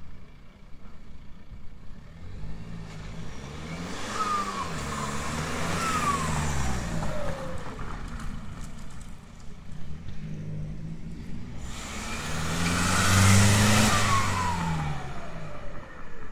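Renault Laguna 2.2 dCi four-cylinder turbodiesel through a straight-pipe exhaust, its revs rising and falling twice, the second time louder. A falling whistle follows as each rev dies away.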